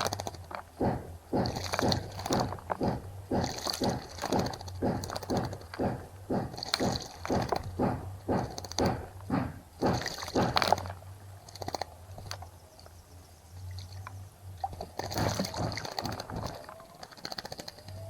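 A small bird splashing in a bird bath, fluttering its wings in the water in quick strokes, two or three a second, that stop about eleven seconds in and start again near the end. High chirps come now and then over the splashing.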